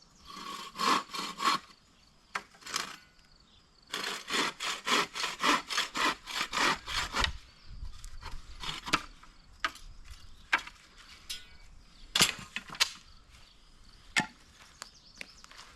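A saw cutting wood with quick back-and-forth strokes, about three a second. There is a short run at the start and a longer one from about four to seven seconds in, followed by scattered knocks.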